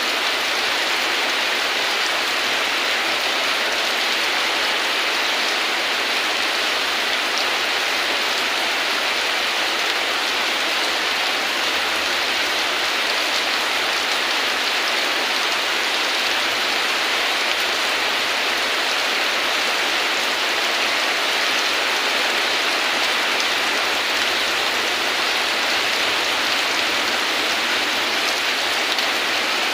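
Rain falling steadily, an even hiss with no thunder or single louder drops standing out.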